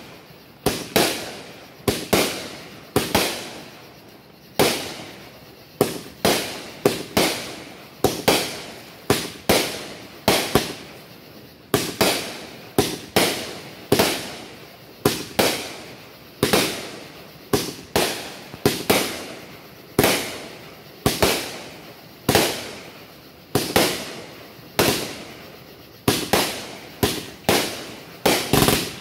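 Aerial firework shells bursting overhead in a rapid barrage: a steady string of sharp bangs, irregular and more than one a second, each fading away quickly after the blast.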